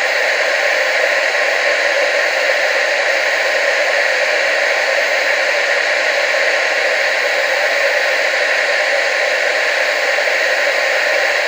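Television static: a steady, unbroken hiss with no low rumble, constant in level throughout.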